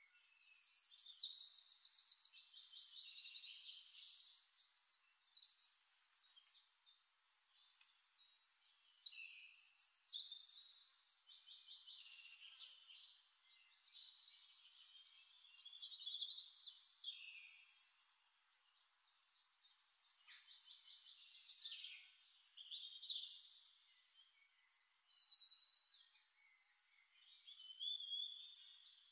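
Songbirds singing, phrases of fast trills and chirps with short sweeps in pitch, coming in bursts a few seconds apart.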